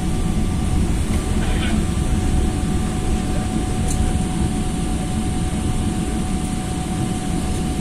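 Airliner cabin noise: the steady low rumble of the jet engines and airflow heard from inside the passenger cabin, with a faint steady hum above it.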